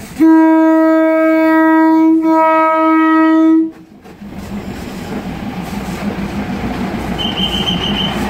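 Diesel train's horn sounding one long blast of about three and a half seconds, dipping briefly midway, then the train rumbling past at close range and growing louder.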